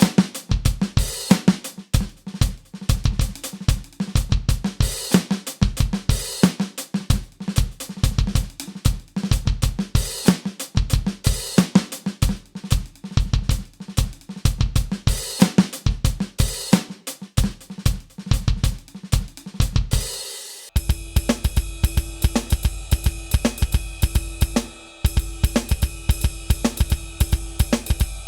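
KAT Percussion KT4 electronic drum kit played through its sound module: a continuous groove of kick, snare, hi-hat and cymbal hits. About 21 seconds in it changes to a different kit sound with steady ringing tones under the hits.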